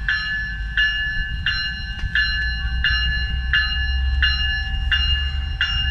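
A bell ringing in a steady rhythm, about three strikes every two seconds, over the low rumble of a commuter train as it pulls out of the station.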